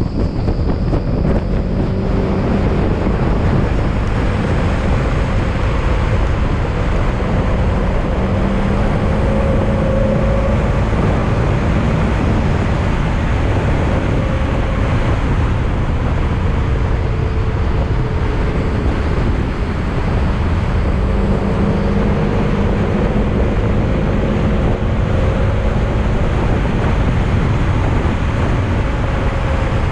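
Yamaha XMAX maxi-scooter under way: its single-cylinder engine hums beneath heavy wind rush on the microphone, the engine note drifting up and down a little with the throttle.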